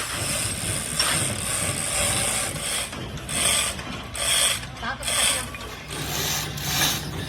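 Repeated scraping or rasping strokes of hand-tool work on engine parts, about one a second, with a steady low hum starting about six seconds in.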